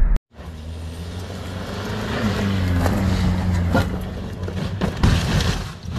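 Car engine running with road noise: a steady low hum that dips slightly in pitch about two seconds in, with a few sharp clicks.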